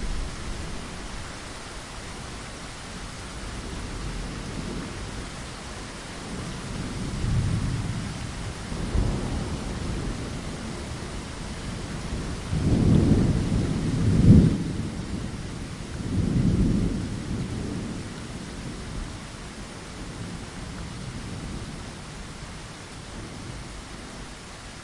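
Steady rain against a window, with a long roll of thunder rumbling underneath that swells several times and is loudest a little past the middle.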